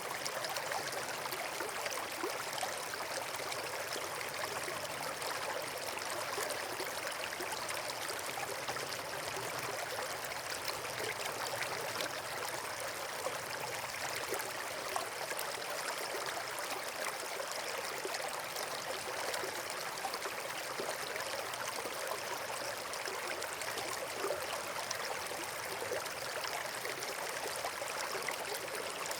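Steady rushing water, a stream or small waterfall, with an even hiss that does not change.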